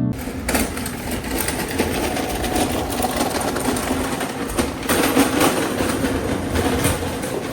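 A machine running with a steady clattering rattle.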